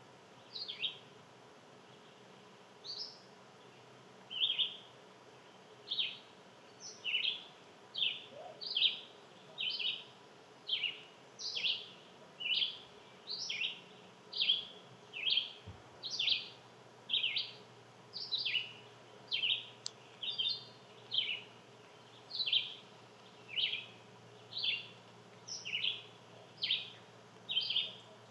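A bird calling over and over, a short downward-slurred note about once a second.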